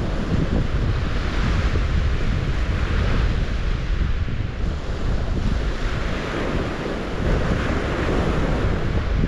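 Steady rush of water, swelling and easing every few seconds, with wind rumbling on the microphone.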